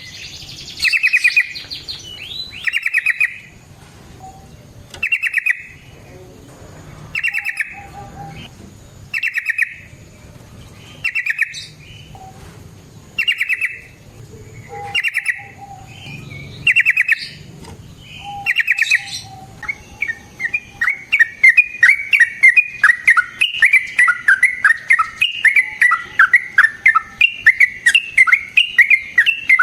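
Yellow-vented bulbul singing: short bubbling phrases repeated every second or two, then, about two-thirds of the way through, a long fast run of chattering notes.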